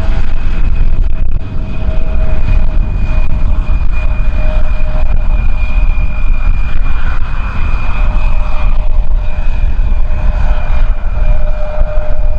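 Airliner engines running with a steady whine at two pitches, over a heavy rumble of strong wind on the microphone.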